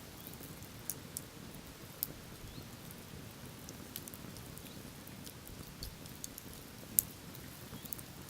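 Wood bonfire crackling: irregular sharp pops and snaps over a low steady rumble, with one louder pop near the end.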